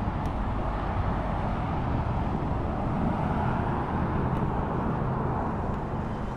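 Steady car engine running, with outdoor traffic noise.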